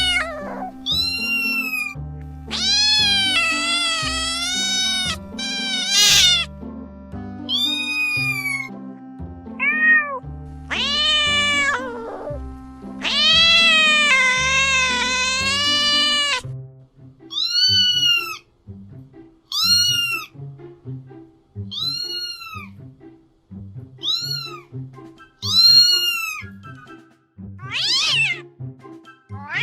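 Cat meowing repeatedly over background music. Long, drawn-out meows come in the first half, then a run of short meows every second or two, and two falling cries near the end.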